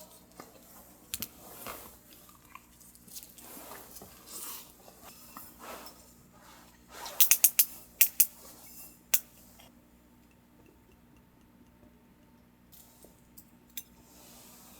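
Chewing and crunching on food, with a quick run of sharp clicks about seven to nine seconds in.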